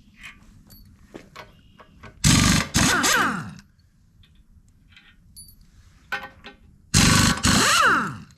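A power impact wrench running in two bursts, each two quick trigger pulls that wind down in falling pitch, loosening the nuts that hold a tractor's cast wheel weights. Light metal clinks in between.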